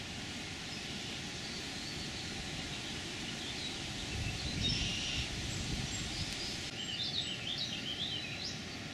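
Steady outdoor background hiss. A brief low rumble comes around the middle, and a quick string of bird chirps near the end.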